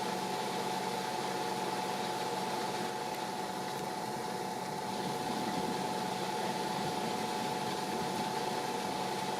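Steady hiss of rain falling, with a constant hum underneath.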